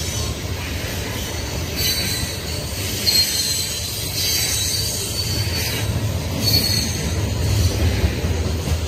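CSX coal train's open-top hopper cars rolling past: a steady low rumble of steel wheels on rail, with several short, high wheel squeals coming and going.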